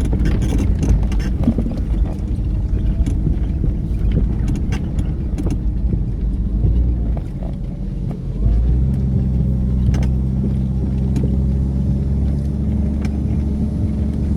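A vehicle's engine running while driving, with scattered clicks and knocks over the low rumble. About eight and a half seconds in, the engine note changes to a steadier low hum.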